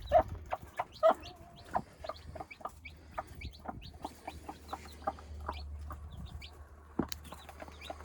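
Broody hen clucking repeatedly while her newly hatched chicks peep in short, high calls. A single sharp knock sounds about seven seconds in.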